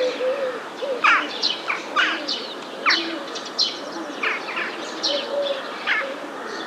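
Songbirds chirping busily: a run of quick, sharply falling chirps, several a second, with softer low notes underneath.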